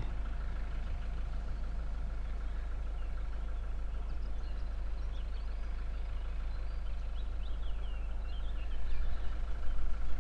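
A vehicle engine idling steadily, with faint high chirping calls partway through.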